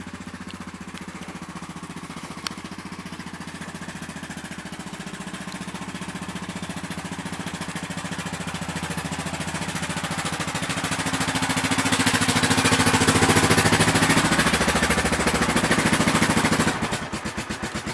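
1997 Honda Foreman 400 ATV's single-cylinder four-stroke engine running with a fast, even exhaust beat, growing steadily louder for about twelve seconds as it pulls under way, then dropping back sharply near the end.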